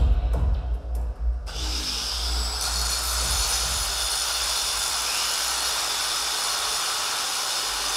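Angle grinder grinding against metal, a steady, even, hissing grind that takes over about a second and a half in as the music's bass drops out.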